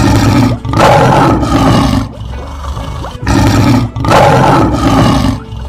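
Lion roar sound effect, heard twice: two loud roars of about two seconds each, the second beginning about three seconds in.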